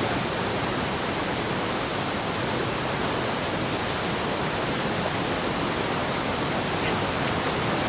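Steady, unbroken rushing of a large waterfall in heavy flow, swollen by rain.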